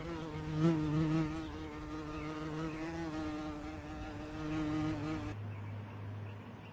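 A flying insect buzzing close by, a steady droning hum with slight wavers in pitch, which cuts off about five seconds in and leaves a low hum.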